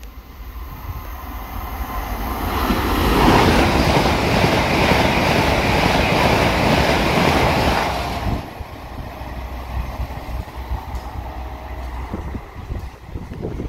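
Passenger train passing at speed through a station: a rush of wheels and air that builds over a couple of seconds, holds loud for about five seconds and drops away sharply about eight seconds in, leaving a fainter rumble.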